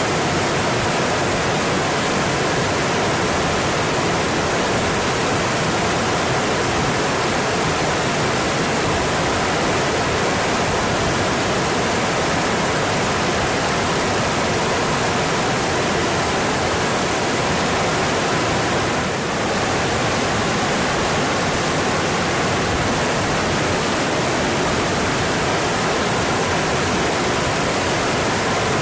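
Mountain stream flowing: a steady, even rush of water that dips slightly for a moment about two-thirds of the way through.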